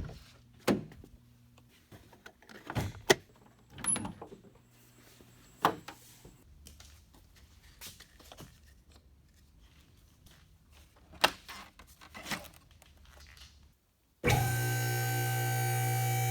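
Scattered knocks and clinks, like hand tools being picked up and set down. About two seconds before the end a steady tone with several held pitches sets in.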